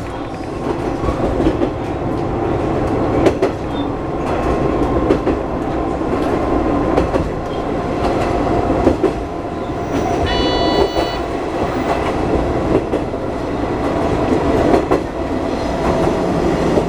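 Heisei Chikuho Railway diesel railcar running along the line, with a steady rumble and the wheels clicking over rail joints. About ten seconds in there is a brief high tone lasting about a second.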